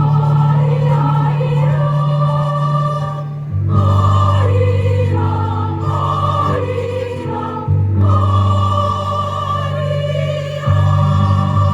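A choir singing a song with instrumental accompaniment, the held bass notes changing about every three to four seconds.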